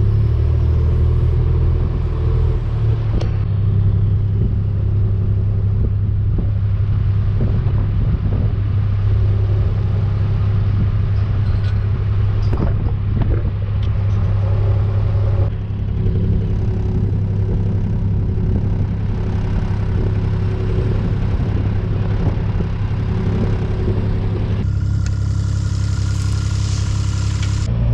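Farm vehicle's engine and drive rumble, steady and low, while driving, with the tone changing abruptly a few times.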